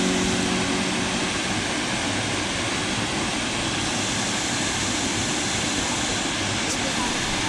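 Waterfall rushing: a steady, even roar of falling water. The tail of some music fades out in the first second.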